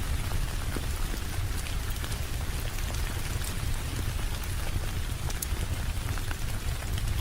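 Steady heavy rain, with a deep low rumble underneath and scattered light ticks of individual drops.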